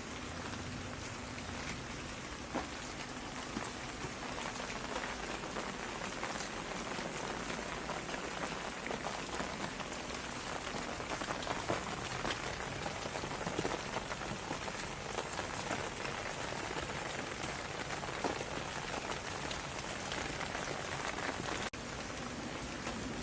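Steady rain falling, with many individual drops heard striking a surface.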